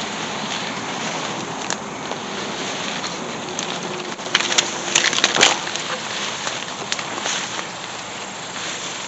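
Footsteps pushing through dry brush and undergrowth, with a quick cluster of snapping twigs and crackles about four to five and a half seconds in, over a steady background of insects.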